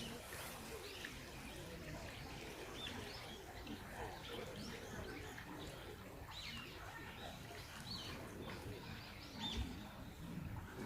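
Small wild birds chirping, with short high notes scattered through, over a faint steady outdoor background. A brief low bump comes near the end.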